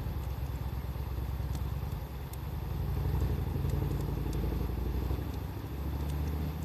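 Wood fire crackling, with a dozen or so sparse sharp pops and snaps, over a louder low rumble that swells and fades.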